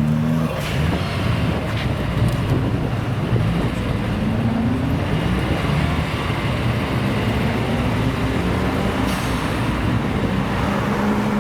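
Car engine under acceleration, loud and noisy, its pitch climbing twice as it revs up, settling back to a steady note near the end.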